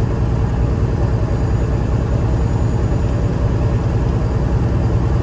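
Big rig truck's diesel engine running with a steady low drone under road noise, cruising on the road.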